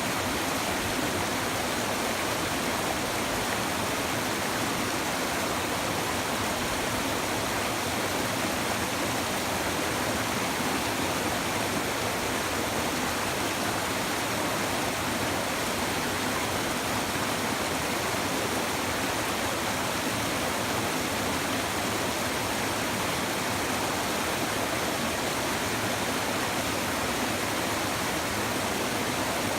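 A river or stream babbling and rushing steadily over rocks, an even, unbroken water noise.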